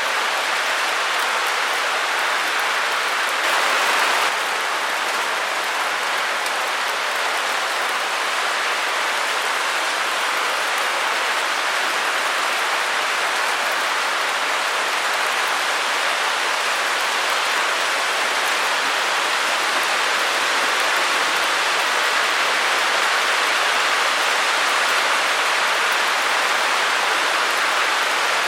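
Steady white-noise hiss, an even shush without tone or rhythm, with little bass. It swells a little for a moment about four seconds in.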